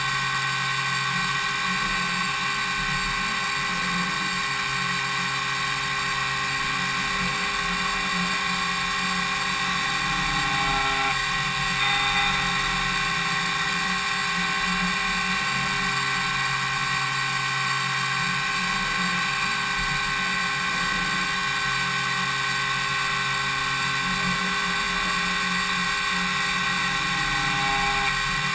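Five-axis CNC machining centre (DMU 70V) milling an impeller's blades: a steady whine made of many steady tones over cutting noise. The tone shifts briefly about eleven seconds in and again near the end.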